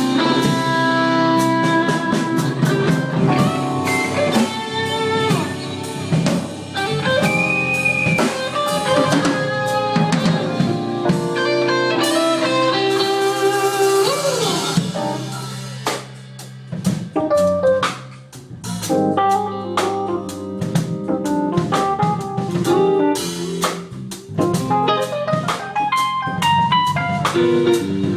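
Live blues-rock band playing: lead guitar with bent notes over bass and drum kit. The band drops to a quieter passage a little past the middle, then picks back up.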